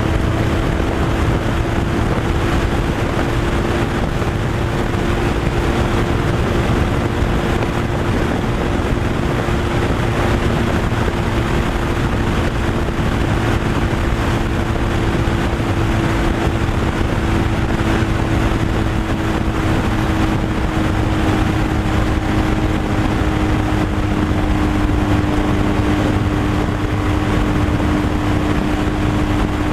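Semi-truck engine running steadily at cruising speed, with a constant drone that sinks slightly in pitch over the stretch, under heavy road and wind noise.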